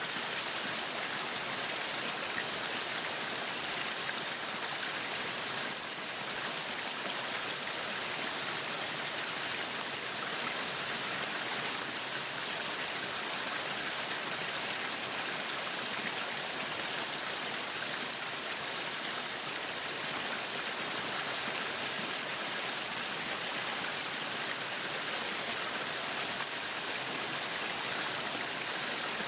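Meat sizzling on a yakiniku grill, a steady even sizzle.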